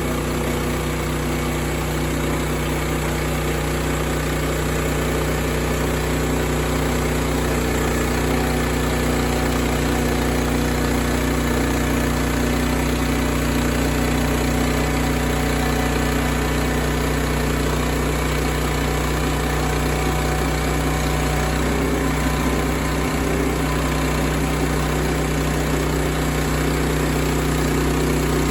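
Sawmill's gasoline engine running steadily at an even speed, with no change in load.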